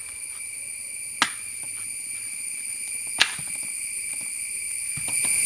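A blade chopping into a wooden stick being cut for a table leg: two sharp strikes about two seconds apart. Under them a steady, high insect chorus of crickets drones throughout.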